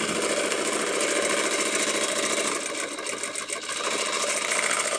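Domestic sewing machine running continuously at speed while free-motion quilting, with no stitch regulator, the needle stitching in a rapid, even rhythm. The speed dips briefly about three seconds in.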